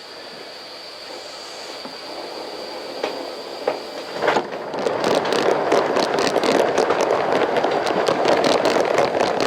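Steam locomotive 4633 moving a cut of cars along the track. The running and rolling clatter builds up about four seconds in and stays loud, over a steady high tone.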